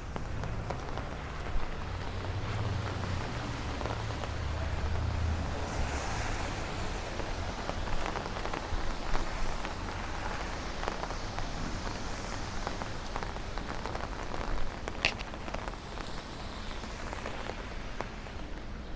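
Steady rain falling on a city street, with scattered drops pattering close by. A low rumble swells and fades in the first few seconds, and a brief high squeak sounds near the end.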